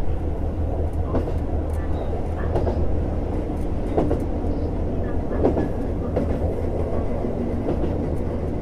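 JR Hokkaido KiHa 150 diesel railcar running, heard inside the car: a steady low engine and running hum with occasional short knocks from the wheels on the rails.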